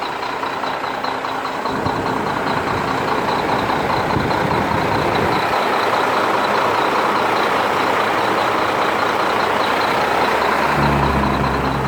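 Mack CH semi truck's diesel engine running steadily, with a faint high, regular ticking over it. A deeper low drone comes in near the end.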